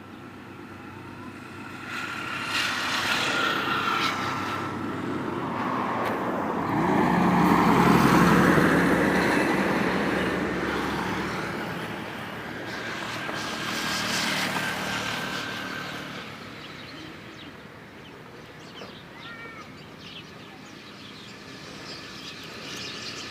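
A motor vehicle passes close by, its engine and road noise swelling to a peak about eight seconds in and then fading. A second, quieter swell follows a few seconds later.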